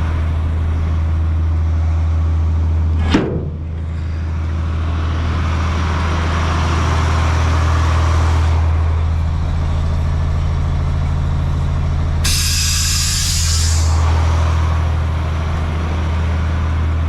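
Diesel engine of a 1995 Ford L8000 truck running steadily. A brief sharp falling squeak comes about three seconds in, and compressed air hisses out of the truck's air system for about a second and a half near the twelve-second mark.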